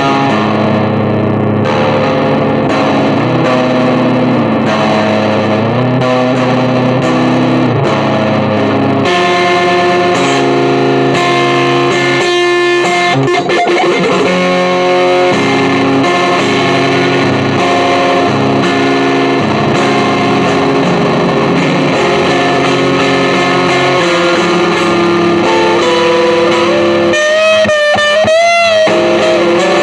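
Electric guitar music played through effects and distortion, with sustained notes and chords changing every second or two. A wavering, bending note comes near the end.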